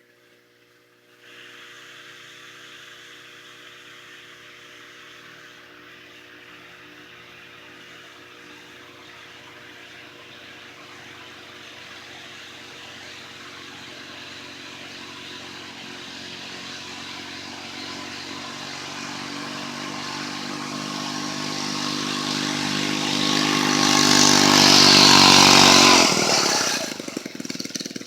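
Mini bike's Honda GX31 31cc four-stroke engine running at a steady high speed as the bike approaches from a distance. It grows steadily louder for about twenty seconds, passes close near the end, then drops off sharply. The note is off because the exhaust is cracked and leaking.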